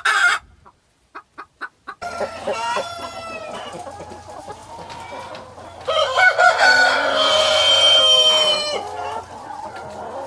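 Chickens clucking in short, quick calls, then a rooster crowing in one long, loud call past the middle.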